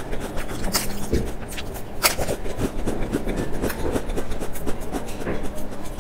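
Close-miked crunching and chewing of a crisp, round waffle-patterned biscuit, with many sharp, irregular crackles.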